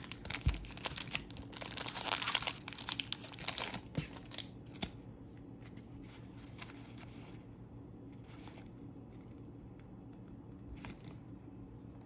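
Foil Pokémon card booster pack wrapper crinkling and tearing as it is handled and opened, dense for the first five seconds or so, then dying down to faint rustles.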